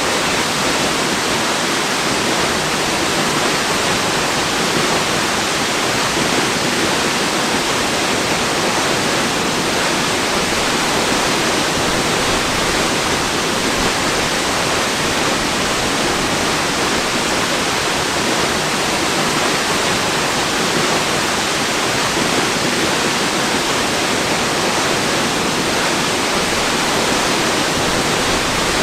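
A waterfall's steady, even rush of falling water, unchanging throughout.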